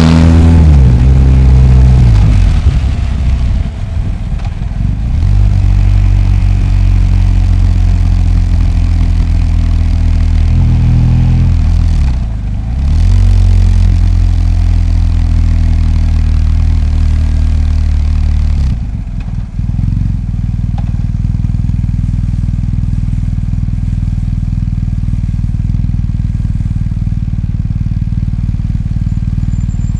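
BMW R 1250 GS's 1254 cc boxer-twin engine running in traffic: revs fall at first, then hold steady, with a brief dip and pickup about twelve seconds in. A little before twenty seconds it drops to a steady, lower idle that runs on.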